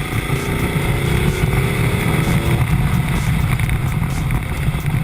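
Ducati Multistrada motorcycle under way, its engine rumble mixed with heavy wind noise. A rising engine note climbs from the start and breaks off about two and a half seconds in.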